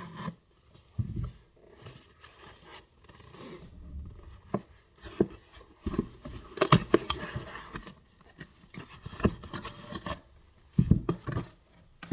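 A shipping package being cut and torn open by hand: scraping and rustling with irregular sharp clicks and knocks, the loudest cluster about two-thirds of the way through and another near the end.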